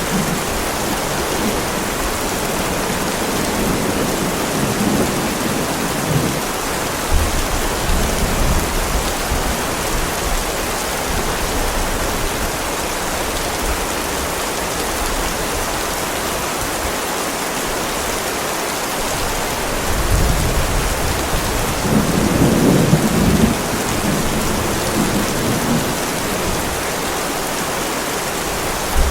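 Heavy rain pouring steadily onto a driveway, a dense even hiss, with low thunder rumbles swelling up about a quarter of the way in and again past two-thirds of the way through.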